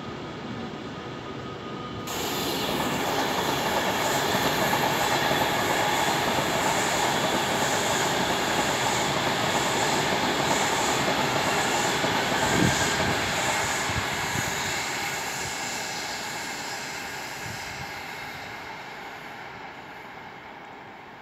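A multi-car passenger train passing on the main line with steady rail running noise. The noise swells sharply about two seconds in, holds loud for about ten seconds, then fades away as the train recedes.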